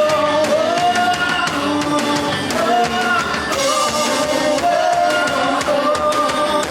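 Indie rock band playing live in a raw room recording: a drum kit with cymbals keeping a steady beat under a sung melody and guitars.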